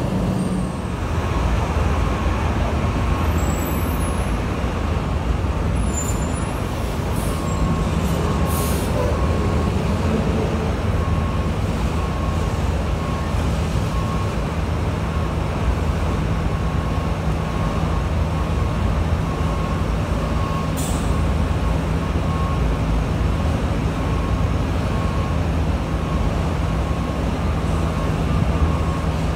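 Freight train of waste-container cars rolling past steadily: a continuous rumble and clatter of steel wheels on the rails, with a low hum underneath and a faint high tone recurring about once a second.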